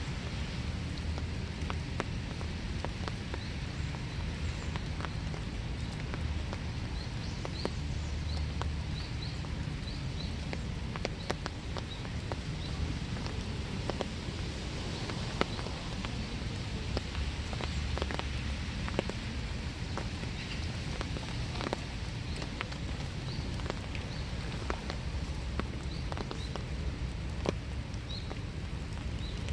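Steady light winter rain with frequent sharp drips of drops landing on surfaces. Short, high bird chirps come and go throughout.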